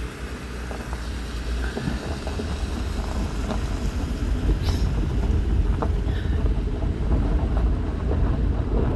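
Vehicle driving off along a rough back road, heard from inside the cab: a low rumble of engine and tyres that builds steadily as it gathers speed, with scattered small knocks from bumps in the road.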